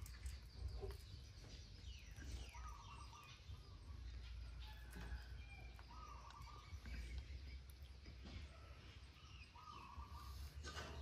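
A bird giving a short, repeated call, three times about three and a half seconds apart, with a few faint chirps, over a low steady background rumble.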